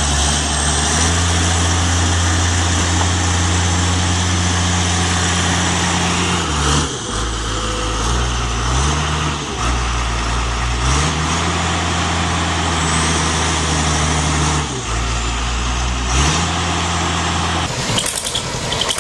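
Heavy diesel engine of a truck or tractor running hard, its revs dropping and picking up again about three times, under a loud steady hiss. The engine stops about a second before the end.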